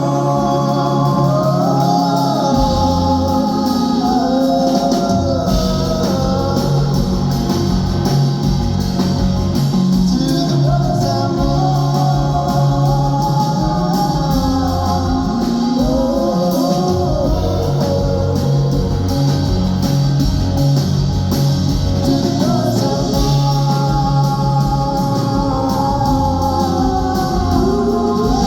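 Live band music heard through a phone in a concert hall: steady held bass notes that change every few seconds under a gliding, wavering melody line.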